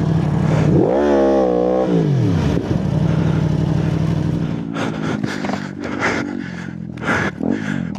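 Motorcycle engine running, with one quick rev that rises and falls about a second in, then a steady run. In the last few seconds, a series of short clattering and rustling noises.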